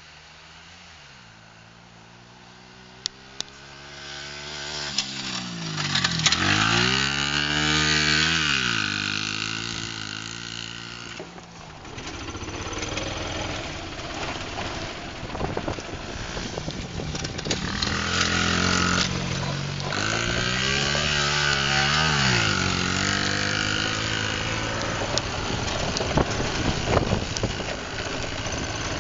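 Small pit bike engine revving up and down as it rides the dirt track, its pitch rising and falling. It grows loud about five seconds in, then swells again a little past the middle.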